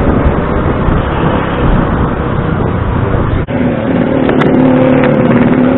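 Motor scooter riding through town traffic: its small engine running under loud wind and road rumble on the microphone. The sound drops out for an instant about three and a half seconds in, and a steadier engine hum comes through after it.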